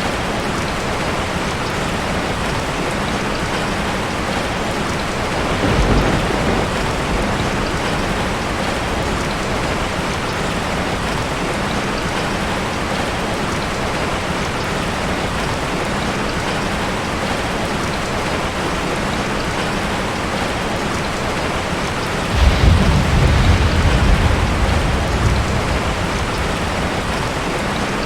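Heavy rain drumming steadily on a tin roof, with a short roll of thunder about six seconds in and a louder, longer rumble of thunder lasting several seconds near the end.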